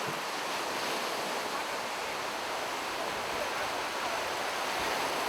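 Sea surf breaking and washing on the shore in a steady rush, with wind on the microphone.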